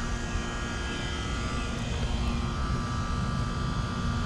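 Trane XB300 air conditioner outdoor unit running: a steady whoosh of the condenser fan with the even hum of its Climatuff reciprocating compressor, carrying several steady tones.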